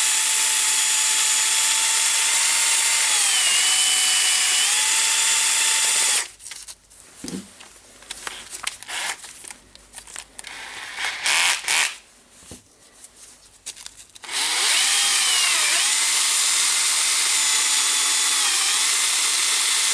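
Power drill running steadily, spinning the armature of a Makita DTD146 impact driver while sandpaper cleans its burnt commutator; the drill's whine dips in pitch briefly as the paper bears on it. The drill stops for several seconds in the middle, leaving irregular light scraping and knocks, then runs again until near the end.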